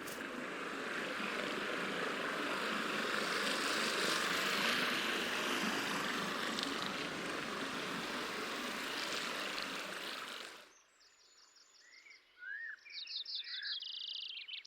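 A loud, even rushing noise that swells towards the middle and cuts off suddenly, followed by several birds chirping and singing, with short rising calls and quick repeated notes.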